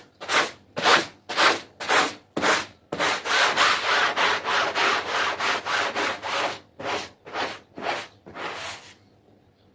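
A brush scrubbing carpet pile in rhythmic back-and-forth strokes, about two a second, running together in the middle, then stopping about nine seconds in.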